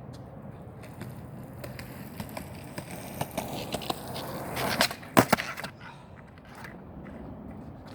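Skateboard wheels rolling over pavement with small ticks from the joints, then a quick cluster of sharp clacks and slaps about five seconds in, the loudest sounds, as the board hits the ground, before it rolls on more quietly.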